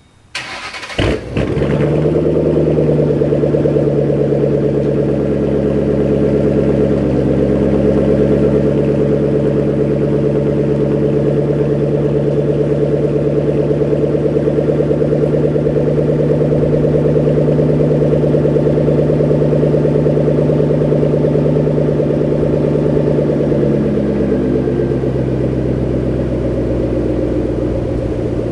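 Saleen-supercharged V8 of a 2008 Mustang GT California Special starting up about a second in, then idling steadily.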